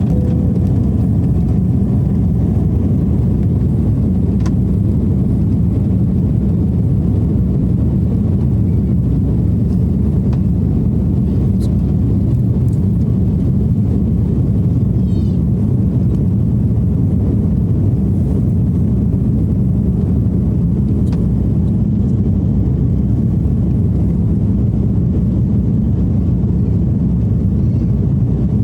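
Airliner cabin noise: a steady, loud low rumble of the jet engines and rushing air around the fuselage, with no change in pitch or level.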